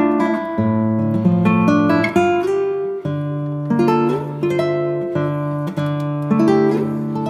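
Background music of plucked acoustic guitar, with a melody picked over a bass line.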